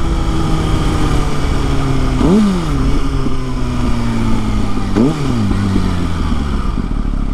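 Kawasaki ZX-6R inline-four sport bike engine heard while riding, with wind rushing over the microphone. The engine note sinks slowly and is broken twice by a quick rise and fall in pitch, like short revs or gear changes.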